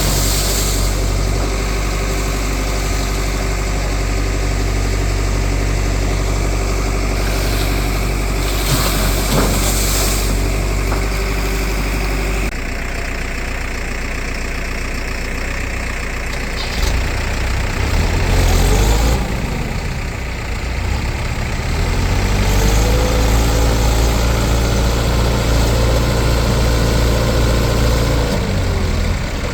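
A tractor or backhoe diesel engine running near idle. About 12 seconds in the sound changes, the engine speed wavers up and down around 17 to 21 seconds, and from about 22 seconds it runs steadier and a little louder.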